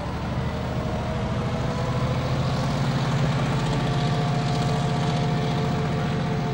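Electric train passing close by: a steady, loud rumble of wheels on rail with a few faint steady tones above it, swelling a little in the middle.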